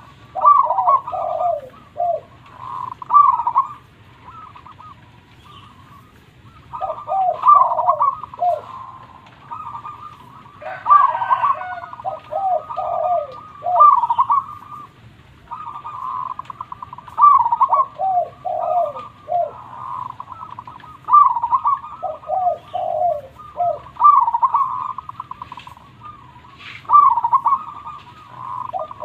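Zebra dove (perkutut) singing its cooing song over and over. Each phrase is a few coos followed by a quick run of short notes falling in pitch, repeated every few seconds.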